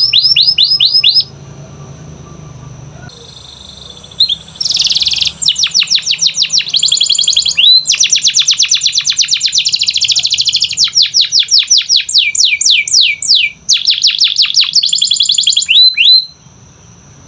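Canary singing: fast trills of repeated high notes that each sweep downward, strung together in long rolls. There is a pause of about three seconds near the start, and the song stops about a second before the end.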